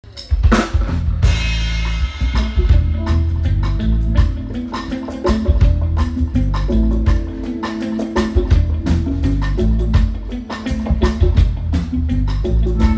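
Live band music with heavy bass and drums, busy percussion strikes many times a second over held pitched notes.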